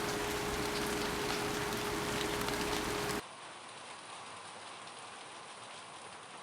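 Steady rain falling, loud and close, with a steady low hum beneath it. About three seconds in it cuts abruptly to softer rain.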